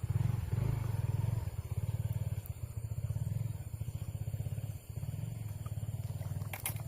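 A small engine running with a steady, rapid low putter, and one sharp click near the end.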